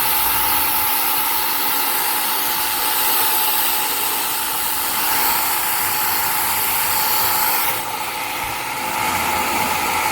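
Ontel Turbo Jet HydroX5 Pro cordless pressure washer running, its motor whining steadily under the hiss of the water jet spraying onto a car. The spray sound changes about eight seconds in.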